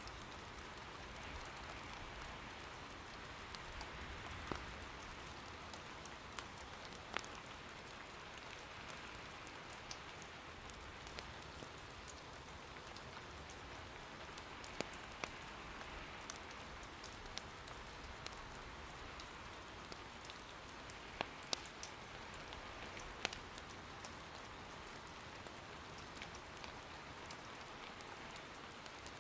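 Soft, steady rain, with sharp crackles from burning wood in an irori hearth fire now and then.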